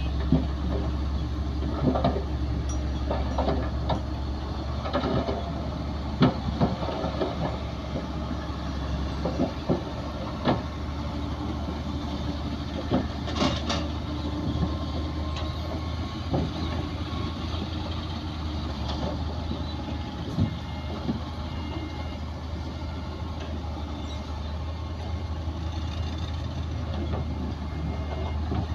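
Heavy diesel earthmoving machinery running steadily with a low hum, with scattered knocks and clanks throughout, the sharpest about thirteen seconds in.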